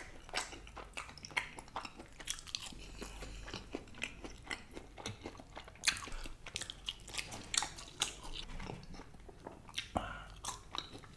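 Crunchy chewing and biting of fried breaded fish fingers, picked up close to the microphone: a steady run of irregular crisp crunches and wet mouth sounds.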